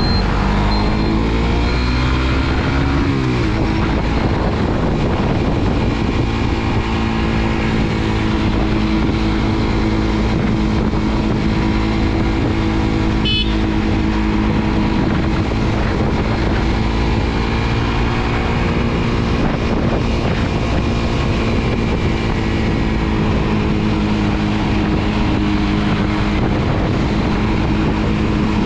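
Suzuki GSX-R150's single-cylinder engine heard from the bike while riding: its pitch rises as it accelerates for about the first three seconds, then it holds a steady note at cruising speed over a constant rush of wind and road noise.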